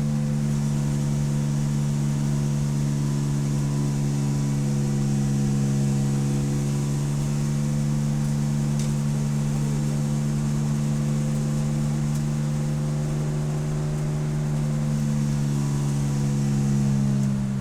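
Race car engine heard from onboard, running at nearly steady revs as one constant drone, with a shift in pitch near the end. A hiss of wind and road noise runs over it.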